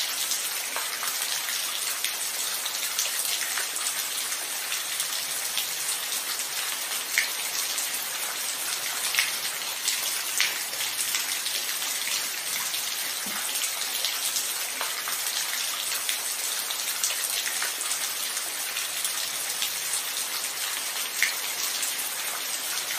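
Steady rainfall: a constant high hiss of rain with scattered louder individual drops ticking and splashing close by.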